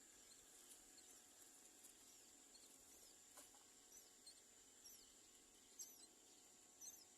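Myna nestlings at the nest giving faint, thin, high begging chirps in a quick irregular series, getting more frequent toward the end: hungry chicks crying for food that a parent has not brought.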